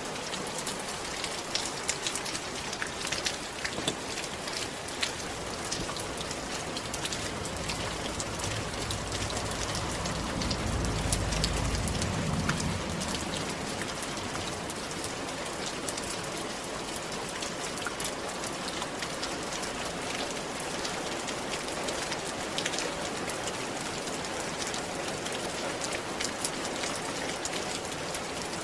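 Rain falling steadily on a roof, a dense patter of individual drops over an even hiss. About ten seconds in, a low rumble swells for a few seconds and fades away.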